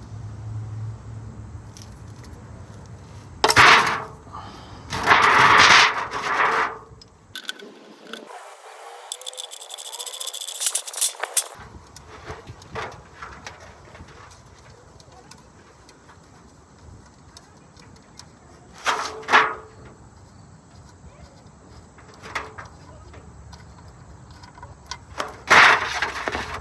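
Metal tool work on an oil drain bolt: a handful of short, loud clinks and scrapes as a wrench loosens the plug, spread across a low background.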